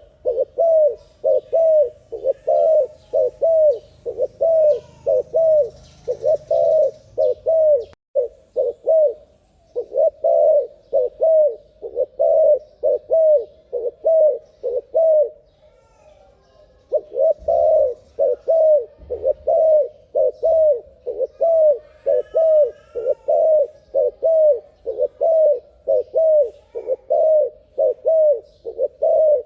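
Spotted dove cooing in a rapid, unbroken series of about two to three coos a second. The series pauses briefly about a quarter of the way in and for over a second near the middle.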